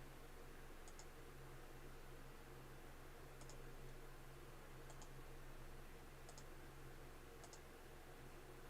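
Near silence with a steady low electrical hum and five faint double clicks, spaced about one to two and a half seconds apart.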